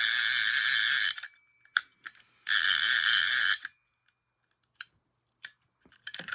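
Shakespeare Service casting reel's clicker and ratchet giving a loud, fast buzzing ratchet in two bursts of about a second each, with a few single clicks between. Near the end a quieter, rougher ratcheting starts, which is called an ugly sounding anti-reverse.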